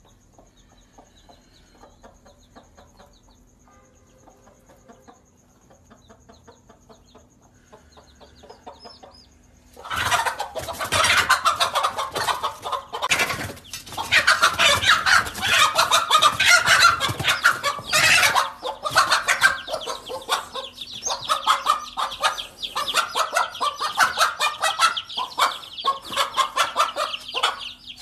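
Chickens calling: faint scattered clucks at first, then about ten seconds in, loud, agitated clucking and squawking that goes on to the end.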